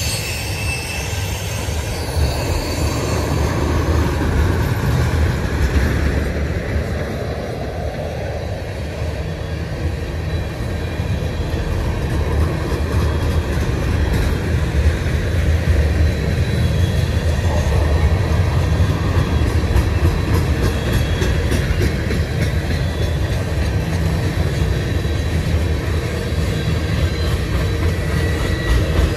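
Tank cars of a freight train rolling past on steel rails: a steady heavy rumble of wheels on track, with faint thin wheel squeals now and then and clicking over the rail joints near the end.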